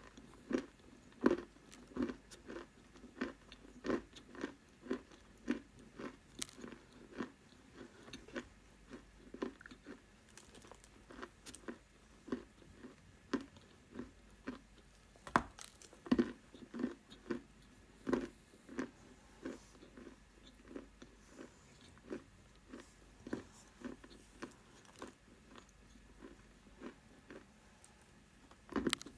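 Close-up chewing of dry edible clay: a steady run of crunchy bites and chews, about one and a half a second.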